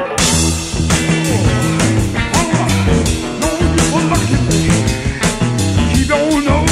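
Rock band playing an instrumental passage with no vocals: drums keep a steady beat under bass and a lead line of bending, wavering notes.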